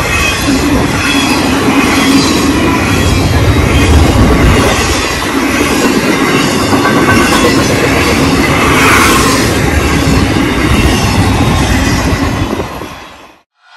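Empty intermodal flatcars of a freight train rolling past at speed: a loud, steady rumble and clatter of steel wheels on rail. It fades out quickly near the end.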